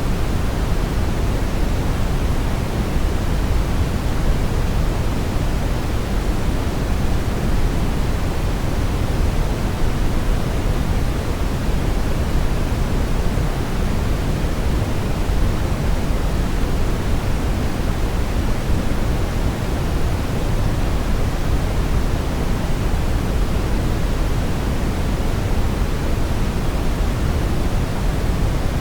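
Synthetic brown noise: a steady, even rushing hiss weighted heavily toward the low end, with no tones, rhythm or events.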